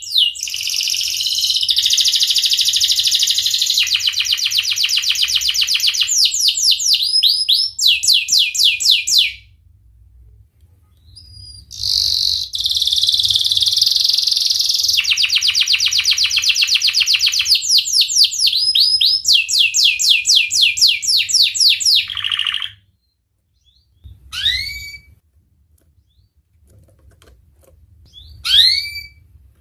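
Domestic canary singing: two long phrases of rapid rolling trills and fast repeated sweeping notes, each about ten seconds, with a short pause between them. A few short, separate falling chirps follow near the end.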